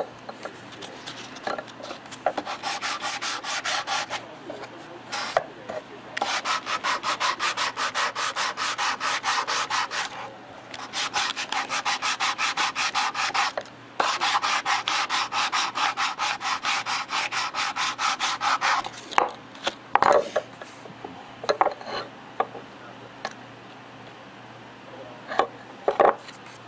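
Sandpaper rubbed quickly back and forth over a bird's eye maple knife handle, about six strokes a second, in several long runs of a few seconds each. In the last third the rubbing stops, and a few scattered knocks and clicks follow.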